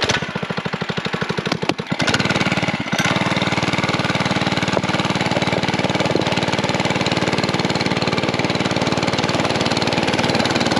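A mini bike's small engine idling with distinct firing pulses, then opening up about two seconds in and running steadily under throttle.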